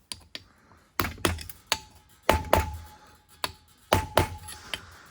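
A tool tapping and knocking on metal, about a dozen sharp strikes in irregular clusters, several leaving a brief metallic ring, as a broken stator plate is worked loose from a two-stroke engine case.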